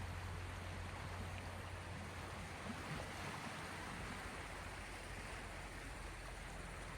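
Small sea waves washing on the shore, a soft, steady hiss of water with a low rumble underneath.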